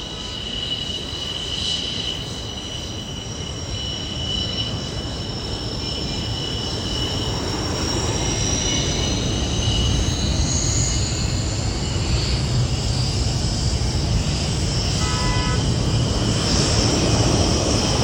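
Fighter jet engine: a steady roar with a high whine that slowly rises in pitch, getting louder throughout.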